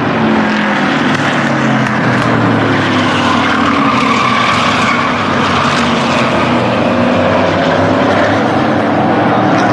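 Engines of a field of short-track race trucks running at racing speed on a paved oval, a continuous loud roar with several engine notes falling and rising in pitch as the trucks go by.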